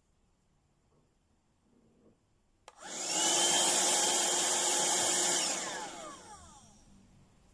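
Superstorez cordless handheld vacuum cleaner switched on with a click about a third of the way in, its motor running loudly for a few seconds, then switched off and spinning down with a falling whine.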